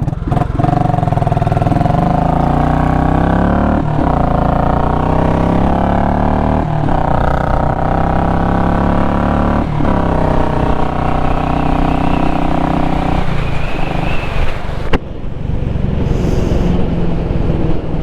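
Royal Enfield Classic 500 single-cylinder engine, with its exhaust baffle removed, running under way. There are gear changes about four, seven and ten seconds in, and the throttle eases off about thirteen seconds in.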